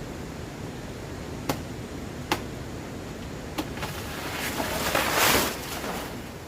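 Three sharp knocks a second or so apart, then a rustling, crackling swell that builds to its loudest about five seconds in and fades, over a steady wind-like hiss.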